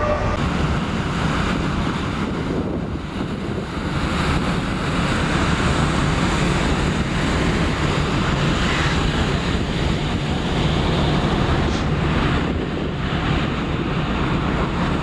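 Wind buffeting the microphone over the rush of the sea along a large ferry's hull, with a steady low hum from the ship under way.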